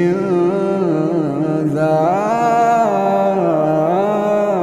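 Quran recitation: a single reciter's voice drawing out one long melodic phrase in the tajweed style, the pitch rising and falling in slow turns without a break.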